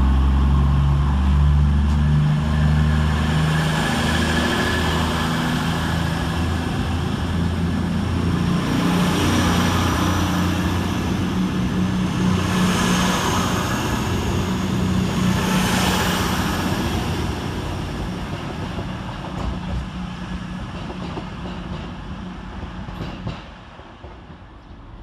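Class 221 Super Voyager diesel-electric multiple unit pulling out under power, its underfloor diesel engines drumming loudly as the cars pass in turn. The sound then fades steadily into the distance over the last several seconds.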